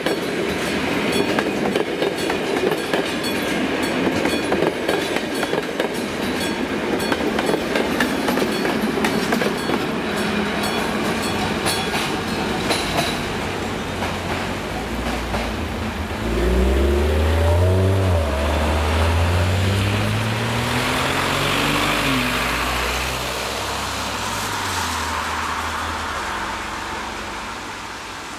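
Passenger coaches rolling past, their wheels clicking over the rail joints in a clickety-clack that dies away about 13 s in. From about 16 s a road vehicle's engine pulls away, rising in pitch through several gear changes, then fades.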